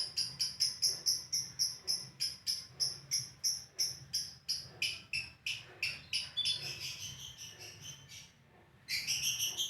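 Lovebird singing its long 'ngekek' chatter: a rapid run of sharp, high notes at about four to five a second that slows and fades, breaks off briefly, then picks up again in a short burst near the end.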